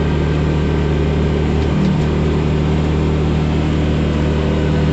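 Side-by-side UTV engine running steadily while driving along a trail.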